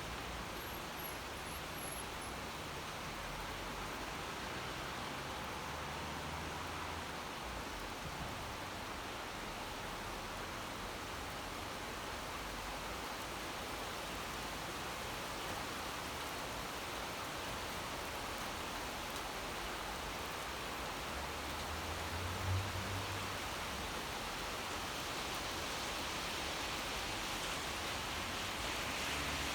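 Steady rain falling, an even hiss of drops, with a brief low rumble about two-thirds of the way through.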